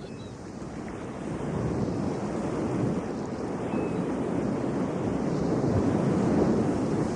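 Ocean surf on a beach: a steady wash of waves that swells slowly over several seconds to its loudest near the end.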